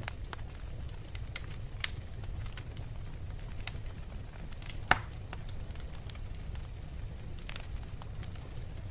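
Wood fire burning in a fireplace: logs crackling and popping over a steady low rumble of the flames, with a sharp pop about two seconds in and the loudest one about five seconds in.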